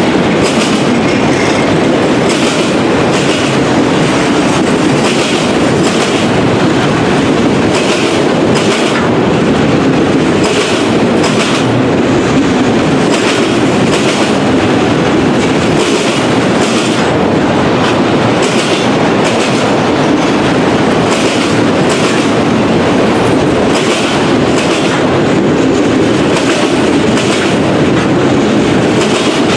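Freight train of autorack cars rolling past close by: a steady loud rumble of steel wheels on rail, with repeated clickety-clack as the wheels cross rail joints.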